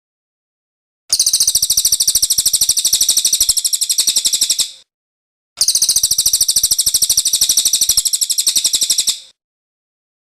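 A cililin songbird singing two long, very fast, high trills of about three and a half seconds each, separated by a short pause.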